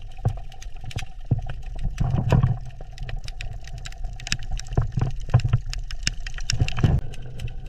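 Steady low motor rumble with a faint steady hum, overlaid by irregular sharp clicks and crackles.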